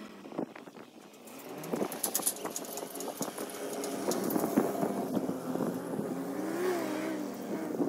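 Mahindra Thar's engine running as the vehicle drives across a dirt field, its revs rising and falling near the end.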